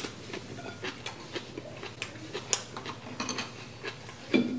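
Close-up chewing of a mouthful of japchae rice: scattered small irregular mouth clicks and ticks.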